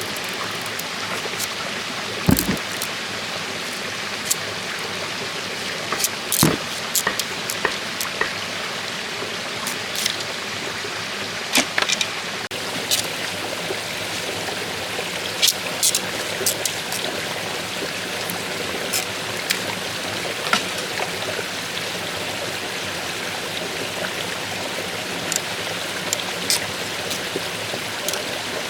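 Steady rushing noise like running water, with irregular sharp knocks and clicks throughout; the loudest come about two and six seconds in.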